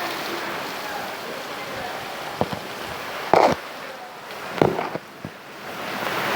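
Rain falling as a steady hiss, with a few sharp knocks in the middle, the loudest about three and a half seconds in.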